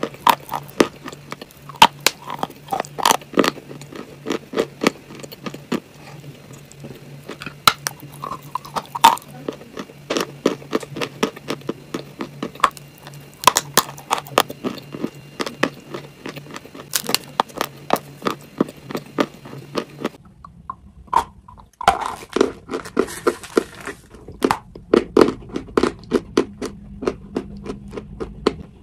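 Close-miked crunching and chewing of chalk: many crisp, sharp crunches in quick succession as the pieces are bitten and ground between the teeth. About 20 s in the sound cuts to a different recording of the same dense crunching, and the low steady hum under the first part stops.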